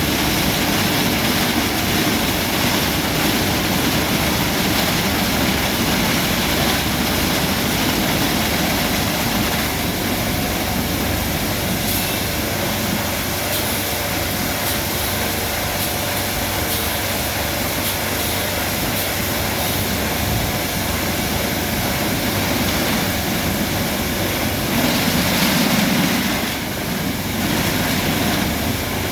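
Christ Genius Vitesse rollover car wash running its cycle over the car: a steady, loud rushing roar of the machine at work, swelling briefly near the end.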